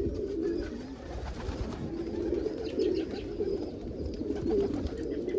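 Domestic pigeons cooing, several birds overlapping continuously.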